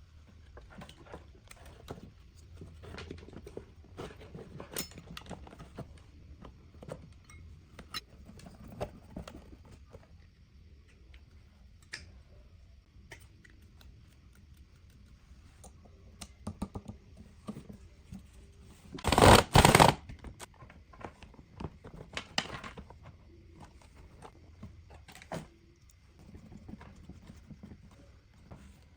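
Scattered light clicks, taps and scrapes of small parts and hand tools being handled on a workbench. About two-thirds of the way through comes a loud burst of noise lasting about a second, followed by a weaker one a few seconds later.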